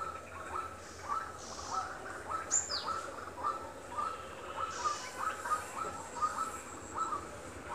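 Birds calling: short, clipped calls repeating about twice a second, joined about two and a half seconds in by one high, falling whistle.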